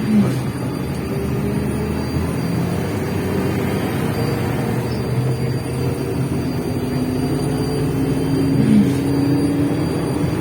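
MAZ 105 articulated city bus under way, heard from inside the cabin: a steady engine and drivetrain drone with road noise. Its tones rise slowly as the bus picks up speed, twice over. A short chirp comes just after the start and again near the end.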